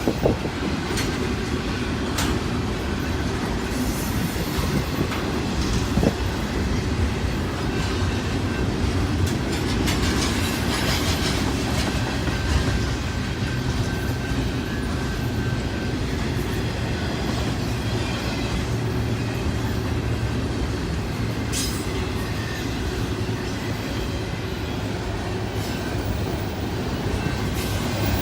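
Double-stack container train's freight cars rolling past: a steady rumble of steel wheels on the rails, with a few sharp clicks and a faint wheel squeal at times.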